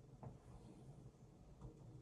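Near silence: room tone with a low hum and two faint clicks.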